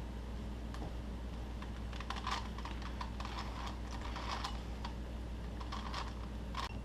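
Plastic Rubik's cube being turned by hand: quick clusters of clicking layer turns in short bursts with brief pauses between. A steady low hum runs underneath.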